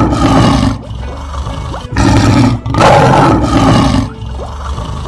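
Lion roar sound effect, twice: the first ends under a second in, and the second starts about two seconds in and lasts about two seconds. Faint background music plays between them.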